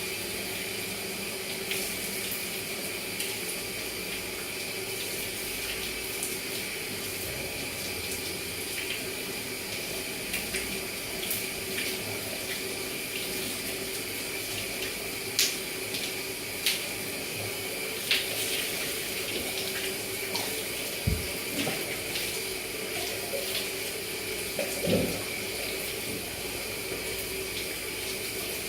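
Water running steadily from a tap or shower, with a few short clicks standing out in the second half.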